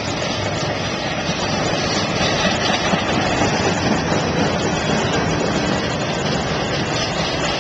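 CSX intermodal freight train passing close by, its trailer-carrying flatcars rolling over the rails with a loud, steady noise of wheels on track that swells slightly a couple of seconds in.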